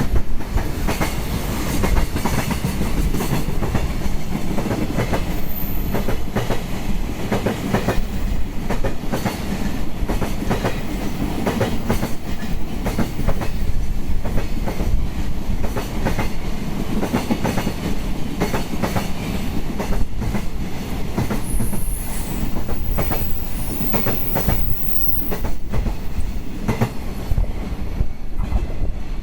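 Freight train passing through a station at speed, a long rake of wagons rumbling by with a continuous run of wheel clicks over the rail joints. Faint high-pitched wheel squeals come in near the end.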